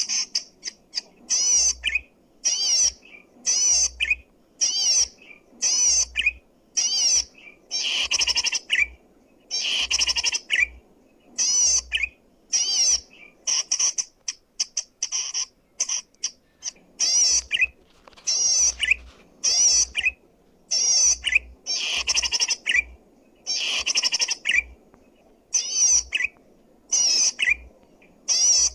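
Cici padi (zitting cisticola) singing loud, clear song: short, rapid, trilling phrases repeated about once a second with brief pauses between them.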